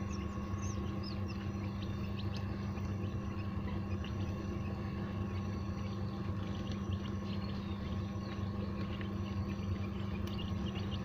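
Newly hatched quail chicks peeping: many short, high-pitched chirps scattered throughout, over a steady low hum.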